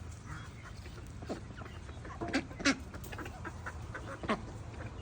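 Ducks quacking now and then: a few short calls, the strongest about two and a half seconds in and again near the end.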